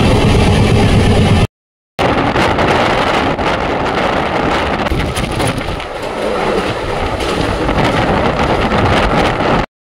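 Express train running at speed, heard through an open coach window: a steady rush of wind on the microphone over the rumble of the moving train. It is broken by two short gaps of silence, one about a second and a half in and one near the end.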